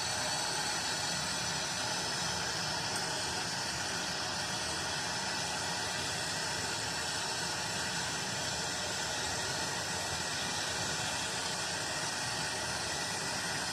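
Pencil torch flame hissing steadily while it heats a copper pipe joint for sweating, before the solder is fed in.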